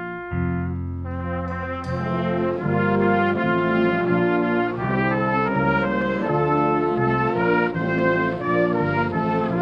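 Brass ensemble playing: trumpets, trombones and horns hold a chord, then move into a busier passage of changing notes about two seconds in.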